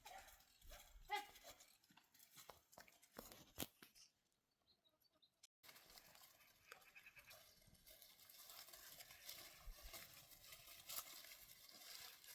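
Faint animal calls, typical of herd livestock, with scattered light clicks and knocks. The sound drops almost to silence for a second or two about four seconds in.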